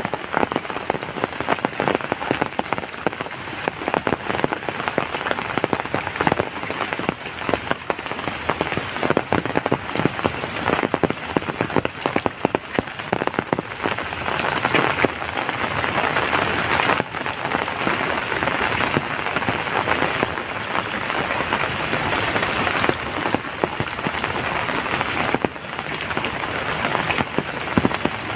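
Heavy rain falling steadily: a dense patter of drops striking surfaces.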